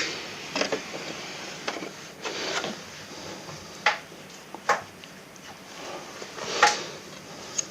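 Hands working with tools and gear: scattered clicks and knocks with rustling between them, the loudest knock near the end.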